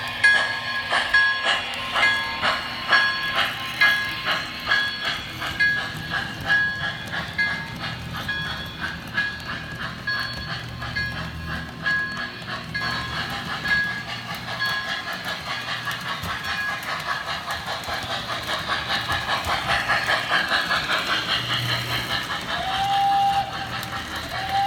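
Proto-Sound 3.0 steam effects from an MTH Railking B6 0-6-0 switcher locomotive: steady chuffing that speeds up as the engine gathers speed, with a bell ringing over it. A whistle starts blowing near the end.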